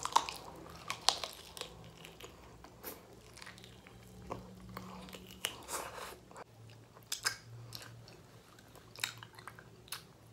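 A person chewing and biting food close to the microphone, with irregular sharp mouth clicks and wet eating noises.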